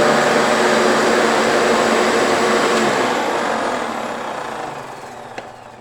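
Hoover Preferred bagged upright vacuum cleaner running, its noise fading over the last few seconds, then a sharp click near the end as it cuts off. The owner thinks it sounds like there's a clog, with the machine not getting enough air.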